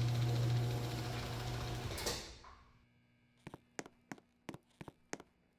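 Craftsman garage door opener running loudly with a strong steady hum, then stopping with a clunk about two seconds in. A series of faint sharp clicks, about three a second, follows near the end.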